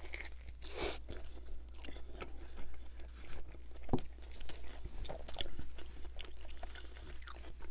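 Close-miked chewing of a bite of a McChicken sandwich: wet mouth sounds with irregular soft crunches, the sharpest about a second in and about four seconds in.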